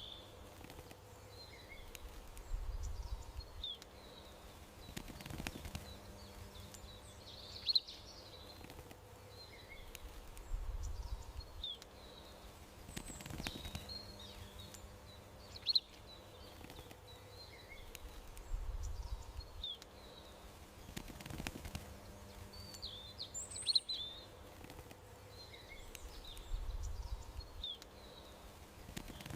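Small garden birds chirping in short, scattered calls over a faint steady background hum, with a soft low rumble every several seconds.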